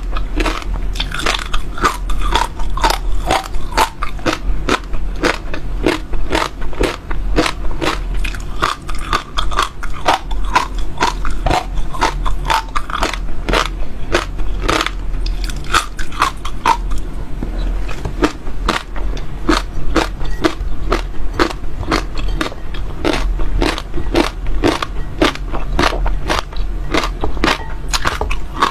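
Close-miked chewing: seeds cracking and crunching between the teeth in a rapid, continuous run of sharp crackles, several a second.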